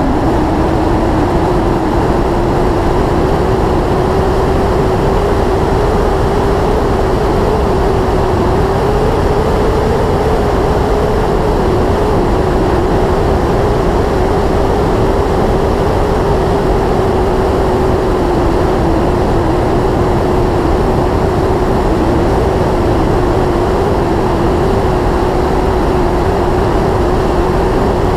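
Yamaha YZF-R6S's inline-four engine running at a steady cruise on the road, its note climbing slightly in the first second and then holding even, under a steady rush of wind and road noise.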